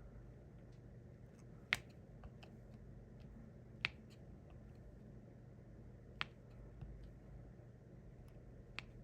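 Small sharp clicks and taps of a diamond painting pen pressing resin drills onto the canvas: four distinct clicks about two seconds apart, with fainter ticks between.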